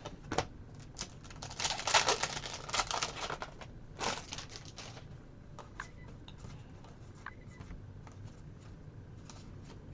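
Trading cards being handled and flipped through by hand: a flurry of rustling and light clicks over the first few seconds, then scattered soft ticks.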